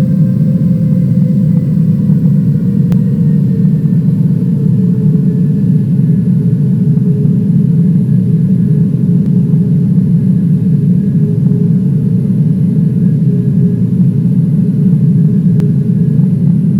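Airliner engine noise heard inside the passenger cabin: a loud, steady rumble with faint engine tones slowly falling in pitch.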